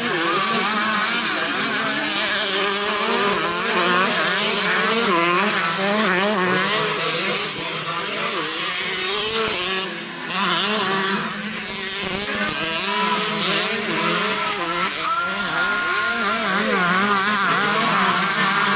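Several 125cc motocross bikes racing, their engines revving up and down over one another, with a brief drop in loudness about ten seconds in.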